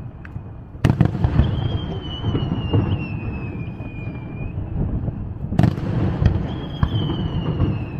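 Fireworks shells bursting overhead: two sharp bangs about five seconds apart, each followed by rumbling and crackle, with a high whistling tone that slowly drops in pitch after each bang.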